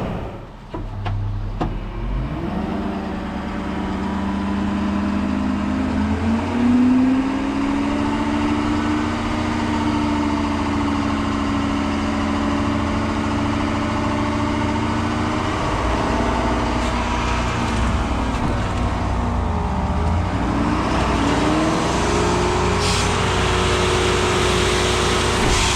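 Truck engine pulling away under load and climbing in pitch. It drops back once partway through, as at a gear change, then climbs again.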